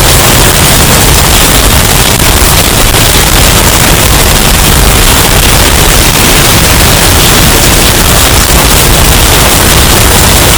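Hurricane wind sound effect, bass-boosted and overdriven until it clips, heard as a steady, harsh, distorted wall of noise at full loudness.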